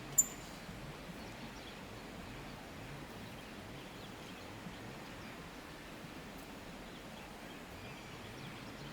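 Faint, steady outdoor background noise, with a single sharp click about a quarter of a second in.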